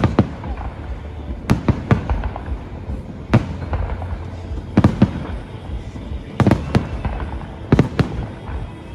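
Aerial fireworks shells bursting in sharp bangs every second or two, several coming in quick pairs.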